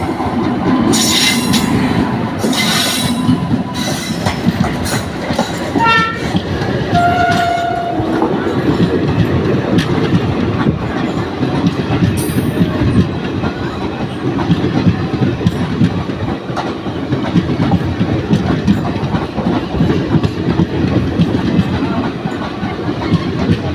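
Train running on the rails, a steady rumble with the clatter of wheels throughout. A short horn note sounds about seven seconds in.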